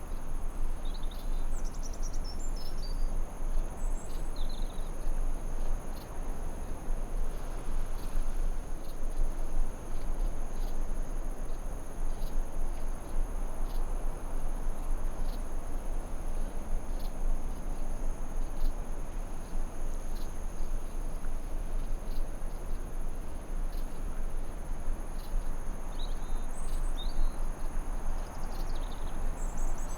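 Forest ambience: insects trilling in two steady high tones over an even background hiss, with a few short bird chirps near the start and again near the end.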